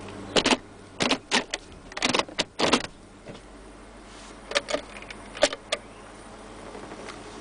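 A 1999 Mercedes E430's V8 idling with a steady low hum, heard from inside the cabin. Over it comes a quick run of clicks and knocks in the first three seconds, with a few more near the middle: handling noises in the cabin.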